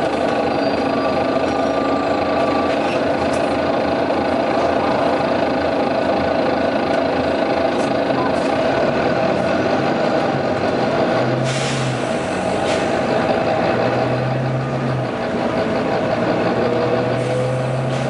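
Volvo B9TL bus's 9-litre six-cylinder diesel engine idling steadily, with two short hisses of released air from its pneumatic system, about eleven seconds in and again near the end.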